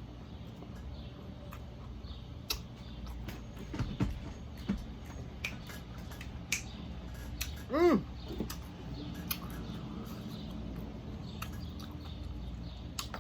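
Close-up mouth sounds of someone eating tacos: scattered sharp clicks and smacks of chewing over a steady low hum. About eight seconds in, a short voiced sound of enjoyment that rises and falls in pitch, the loudest moment.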